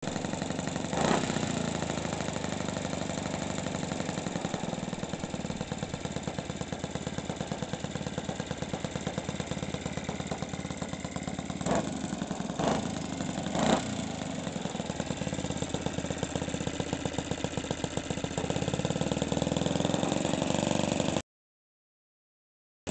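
OS 91 four-stroke glow engine in an RC model Spitfire running steadily during its warm-up, with a few sharp spikes along the way. It runs louder for the last few seconds, then cuts off suddenly.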